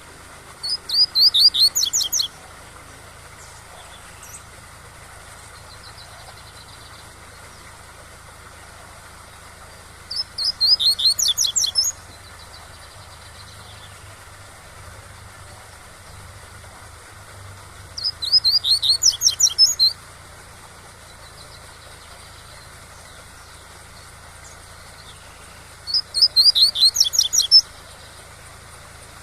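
Double-collared seedeater (coleiro) singing its 'tui-tui' song: four short phrases of rapid high notes, about eight seconds apart, over the steady rush of a waterfall.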